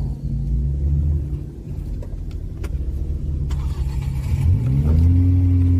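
Chevrolet Camaro engine heard from inside the cabin, idling steadily, then revved about four and a half seconds in, its note rising and holding higher.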